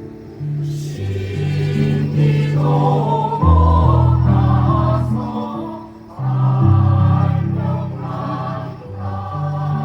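A choir singing a song, holding long notes that change in steps; the voices swell from about two and a half seconds in and dip briefly around the middle.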